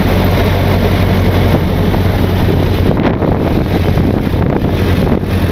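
Ford Model T's four-cylinder engine running steadily with a low hum as the open car drives along, with wind buffeting the microphone.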